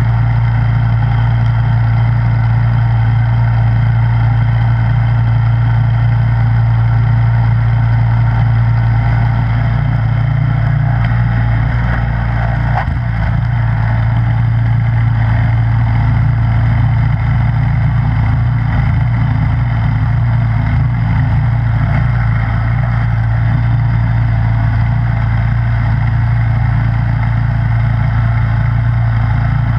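Snowblower engine running steadily, with a brief dip about thirteen seconds in.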